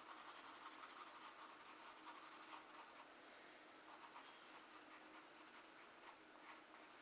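Faint, quick scratching strokes of a charcoal pencil on drawing paper, in two runs with a short let-up about three seconds in.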